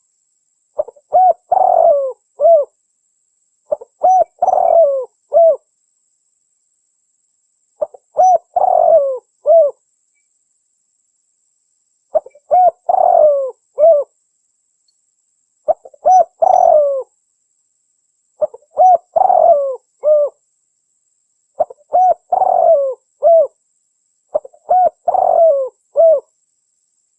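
Spotted dove cooing: the same phrase of several quick coos, about two seconds long, repeated eight times at fairly even gaps with silence between.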